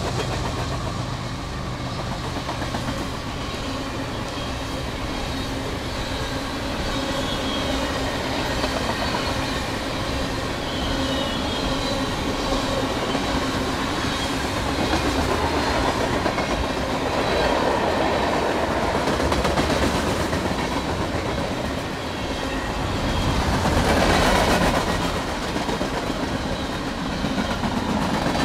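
A train passing at speed, its cars' wheels clattering over the rail joints in a steady rush, swelling louder twice in the second half.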